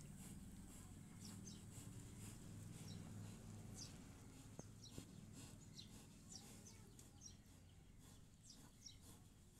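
Faint, quick chirps of small birds, each a short downward slide, repeating throughout, over a low hum that fades about halfway. Two small clicks come about halfway through.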